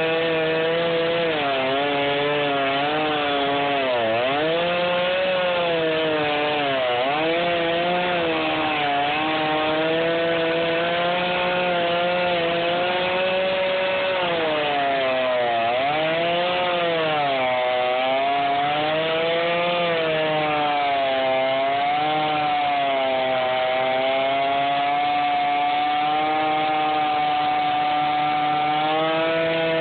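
Chainsaw cutting into a felled sycamore log. The engine runs continuously under load, its pitch sagging and recovering as the chain bites, with several deep dips where it bogs down before speeding up again.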